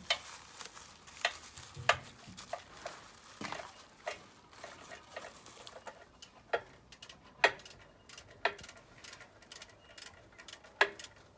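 Irregular metallic clicks and clinks of bolts and hand tools as gearbox-to-engine bolts are threaded in.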